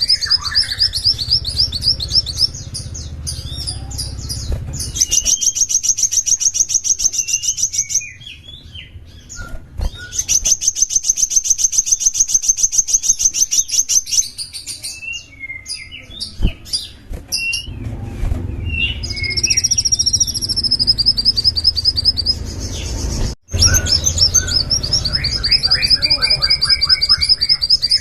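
A small songbird singing long, very rapid high-pitched trills, broken by short pauses and quick chirping notes.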